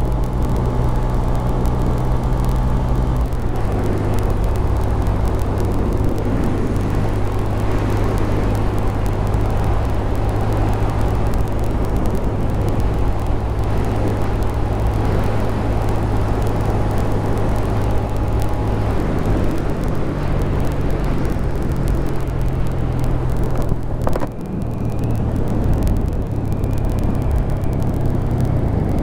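Honda Grom 125's single-cylinder engine running steadily while riding, over a haze of wind and road noise. The engine note drops about three and a half seconds in, rises again after about nineteen seconds, and dips briefly around twenty-four seconds.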